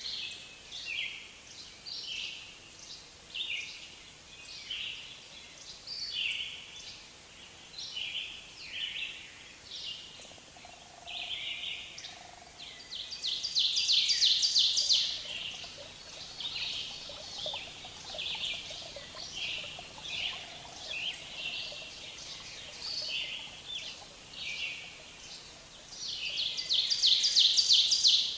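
Birds chirping in short, quick repeated calls, with a louder rapid trill twice: once about halfway through and again near the end.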